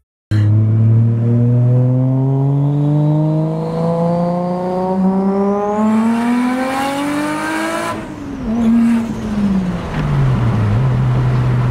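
Nissan Skyline's engine, heard from inside the cabin, accelerating hard with its pitch climbing steadily for about eight seconds. The revs then drop, rise briefly and fall away, settling into a steady lower drone near the end.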